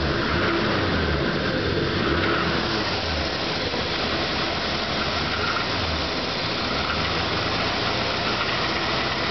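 Ford F-100 pickup's engine being started cold after sitting five weeks, turning over with an uneven low pulsing.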